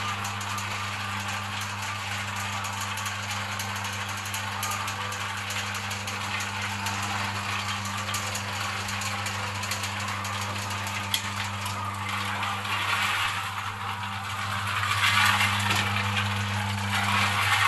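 Seasoning mixer machine running: a steady electric motor hum under a dense rattling noise, which gets louder for a few seconds near the end.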